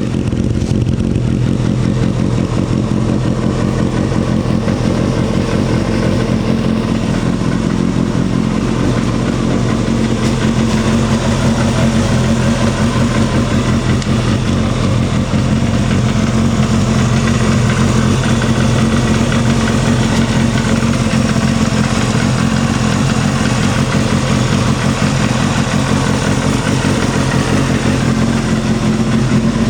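Suzuki GSX250FX's 250 cc inline-four engine running steadily, through an aftermarket muffler that the seller takes for an RPM.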